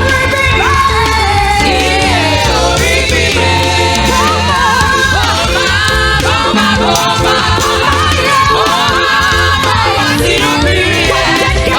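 Church choir singing a gospel song over a live band, with a steady bass line and drums keeping the beat.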